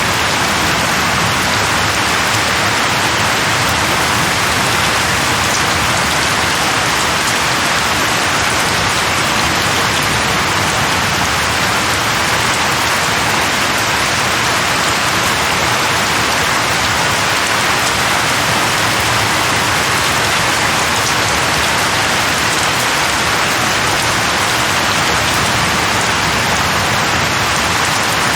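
Steady heavy rain, an even unbroken hiss of falling rain and drops on surfaces.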